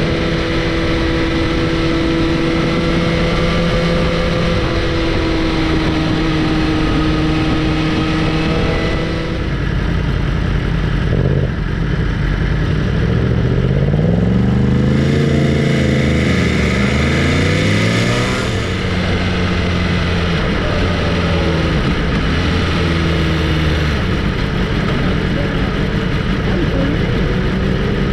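Motorcycle engine running while riding, its pitch steady at first, then rising and falling around the middle as it revs up and eases off, then settling back to a steady note.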